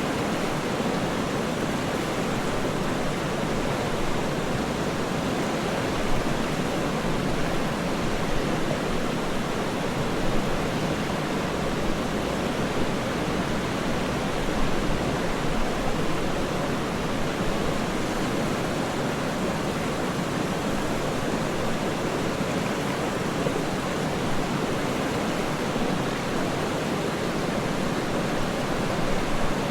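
Waterfall rushing steadily: a dense, even, deep-toned roar of falling water with no breaks or individual splashes.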